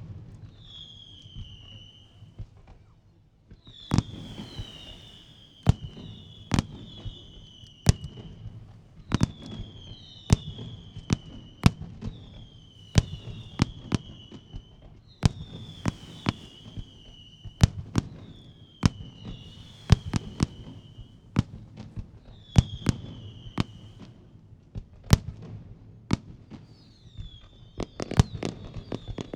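Fireworks display: sharp shell bursts about once a second, with high whistles that glide down in pitch between them. Near the end comes a dense rapid rattle of bursts.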